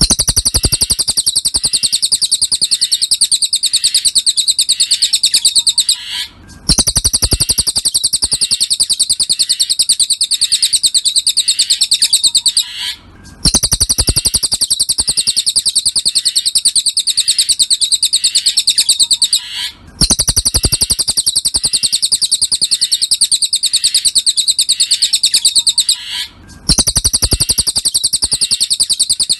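Cililin songbird singing a fast, high-pitched trilling song in repeated phrases about six seconds long, each followed by a brief pause.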